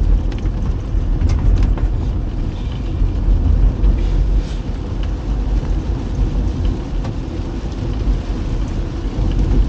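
Car driving on a wet road in the rain: a steady, loud low rumble of tyres and engine, with a few sharp ticks in the first couple of seconds.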